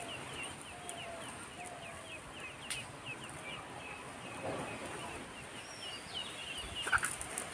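Small birds chirping over and over in quick short calls, with a brief rustle about halfway through and a few light clicks near the end.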